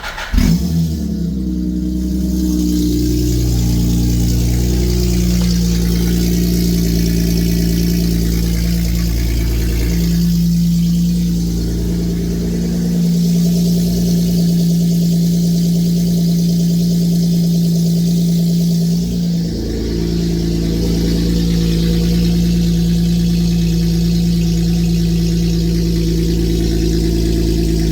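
Honda Accord's J-series V6 catching on a cold start with a brief flare, then idling steadily. It is loud, running through a freshly welded 3-inch J pipe with most of the exhaust system still off the car.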